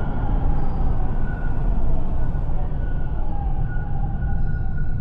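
Steady low rumble of a moving vehicle, with faint high tones that drift slightly in pitch over it.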